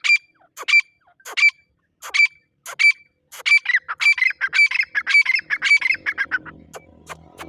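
Teetar (partridge) calling: six loud, separate calls spaced about two-thirds of a second apart, then a quicker run of notes from about three and a half seconds in that fades away near six and a half seconds. Two brief ticks follow near the end.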